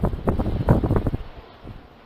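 Wind buffeting the microphone in irregular gusts, easing off a little past halfway to a quieter steady rush.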